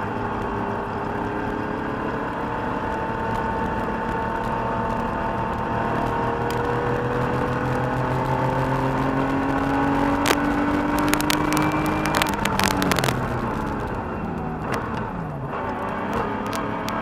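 1985 Porsche 911 Carrera's air-cooled 3.2-litre flat-six, heard from inside the cabin under hard driving. The engine note climbs steadily for about twelve seconds, drops as the car slows with a few sharp clicks, and climbs again near the end.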